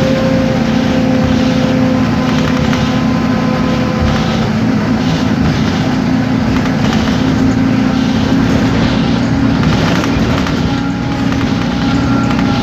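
Isobus City 1200 city bus under way, its MAN D0836 straight-six diesel and ZF automatic driveline running steadily. A thin whine sinks slightly in pitch over the first few seconds, and higher whines come in near the end.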